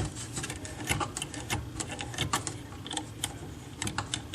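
Rapid, irregular small clicks and ticks of a bathroom faucet's mounting nut being turned by hand up the tap's threaded shank, now wrapped in plumber's tape so it will grip.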